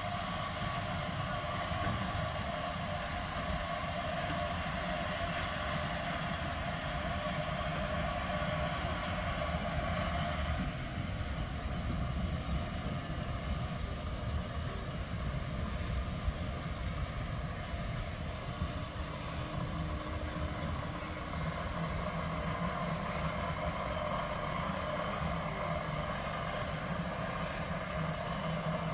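Steady rumble of a train running on the line.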